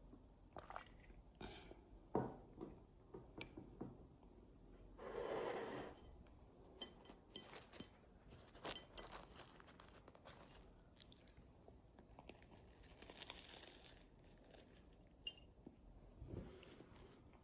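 Quiet handling of household things: scattered light clicks and clinks, one sharper knock about two seconds in, and two brief rustles of paper or wrapping.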